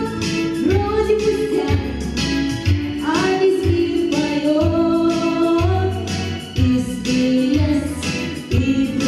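A young female voice singing a melody over a song accompaniment with a bass line and a steady beat, holding long notes and sliding up to a higher note about three seconds in.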